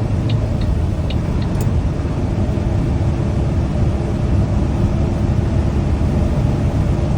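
Semi-truck cab interior while driving: a steady low drone of diesel engine and road noise, with a faint steady hum and a few light ticks in the first couple of seconds.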